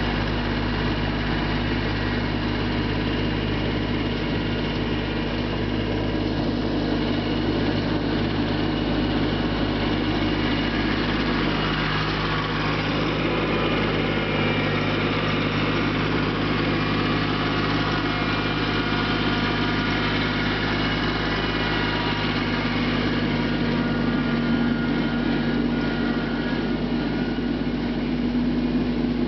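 Mahindra Max 24 compact tractor's diesel engine running steadily.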